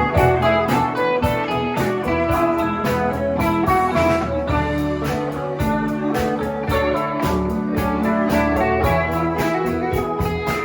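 Live band playing an instrumental passage, guitar to the fore over bass and drums with a steady beat.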